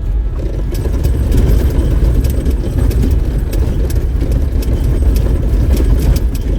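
Off-road vehicle driving on a rough dirt trail: a steady low engine and road rumble with frequent short clicks and knocks from the rough ground and the vehicle's body.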